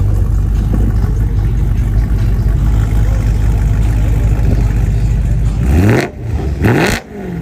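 BMW engines idling in a lineup, a steady low rumble, then near the end an engine is revved twice in quick succession, each rev climbing sharply in pitch and dropping off abruptly.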